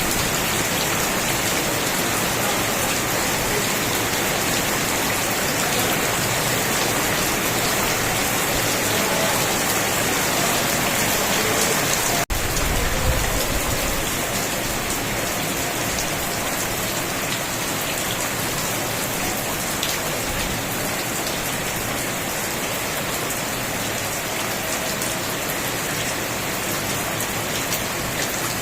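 Steady rain falling on surfaces, a dense even hiss. About twelve seconds in the sound drops out for an instant and a brief low rumble follows, after which the rain carries on a little softer.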